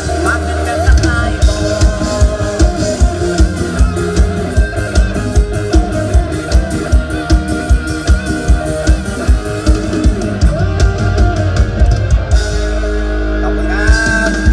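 Live Isan mor lam band music: a plucked-string melody over a steady drum-kit beat, about two beats a second.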